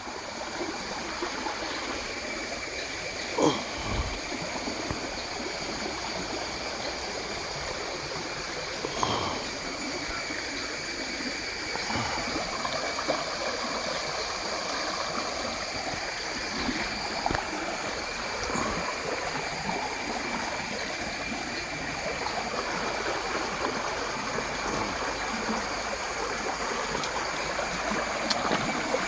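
A small stream flowing steadily, a continuous rush of running water, with a steady high-pitched whine above it. A few brief knocks sound over it, the loudest about three and a half seconds in.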